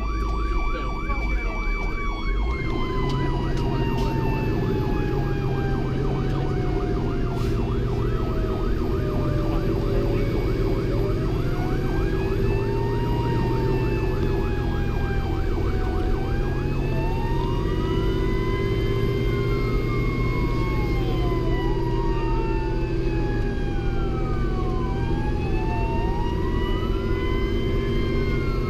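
Fire engine sirens sounding while responding. A fast yelp runs for the first two seconds, then changes to slow rising-and-falling wails, with one siren tone winding slowly down, all over the truck's steady diesel engine.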